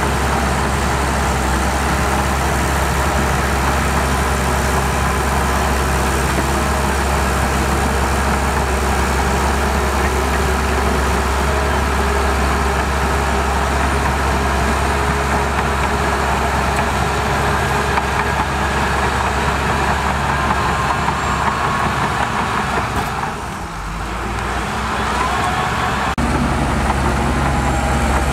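Heavy construction machinery's diesel engine running steadily, dipping briefly in loudness about 23 seconds in, then coming back up.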